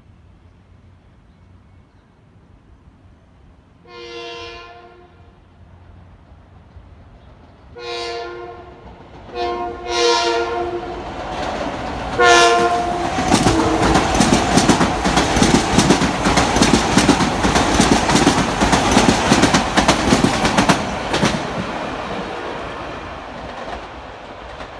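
Long Island Rail Road Kawasaki M9 electric multiple-unit train sounding its Nathan K2H two-bell air horn in five blasts as it approaches: one long, then a group of shorter ones. It then passes close by with a rapid, loud clatter of wheels over the rail joints, which fades after a while as the train moves away.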